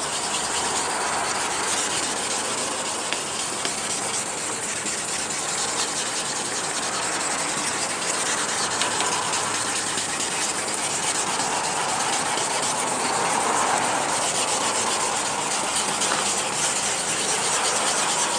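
2000-grit wet/dry sandpaper rubbed over a wet plastic headlight lens: steady rubbing of wet sanding, used to smooth the lens after the coarser 400-grit step.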